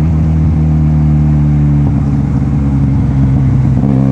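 Benelli TNT 300's parallel-twin engine through a free-flow slip-on exhaust, very loud. The steady note breaks up into an uneven, popping burble about two seconds in, like exhaust pops off the throttle, then settles back to a steady tone near the end.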